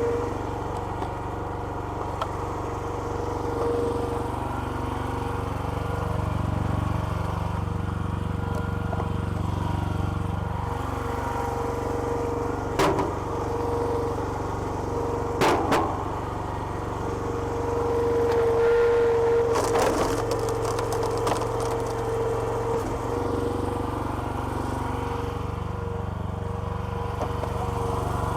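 Small petrol engine of a homemade hydraulic log splitter running steadily. Two sharp cracks come just before the middle, and a quick run of crackles follows a little later, as wood splits.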